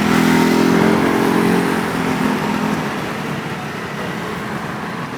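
A road vehicle's engine running close by, loudest at first and fading away after a couple of seconds as it moves off, leaving steady street traffic noise.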